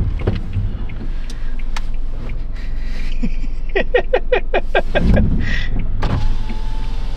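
Steady low hum of a vehicle idling, heard from inside the cab. A little past the middle comes a quick run of about eight short pitched pulses.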